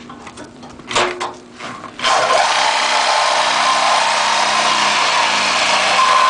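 A few knocks about a second in, then a power tool starts abruptly and runs steadily with a loud, high hiss and a constant tone.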